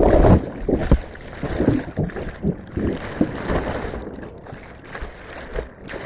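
Water splashing and rushing around a kayak on a river, in irregular surges, with wind buffeting the microphone.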